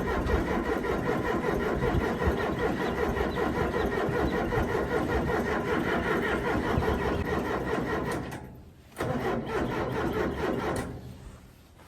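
Cold Case 580C backhoe diesel engine cranking on the starter without catching, a long crank of about eight seconds, a brief stop, then a shorter crank that dies away. The engine doesn't fire: it needs starting fluid to start in the cold.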